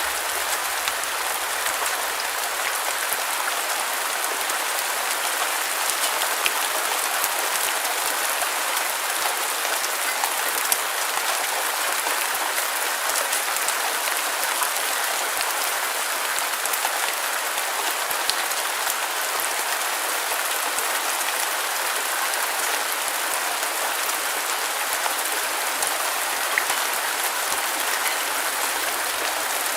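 Steady rain falling on a surface, a dense even hiss of drops with scattered individual drop ticks.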